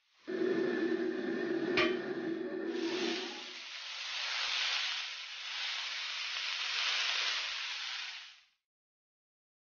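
Tussah silkworm pupae frying in hot oil. First comes a low steady hum with a single metal clink about two seconds in, as they are lifted out in a wire strainer. Then a loud sizzling hiss as they are stir-fried in a wok; it swells and eases twice and stops abruptly near the end.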